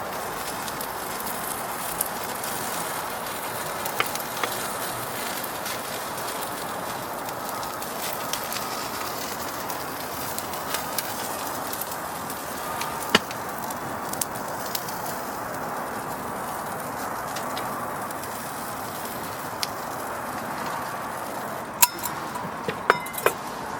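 Wood fire burning with a steady hiss and scattered sharp crackles, about a dozen pops spread unevenly and clustered near the end.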